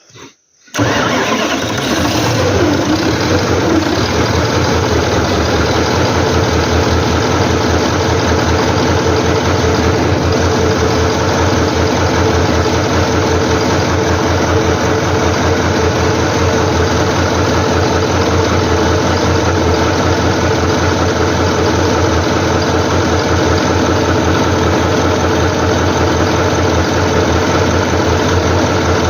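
Engine that, by the title, is getting no oil to its cylinder heads, coming in suddenly about a second in and then running loudly at a steady, even speed.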